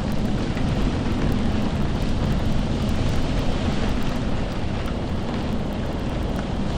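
Steady rain: an even, unbroken hiss, strongest in the low range.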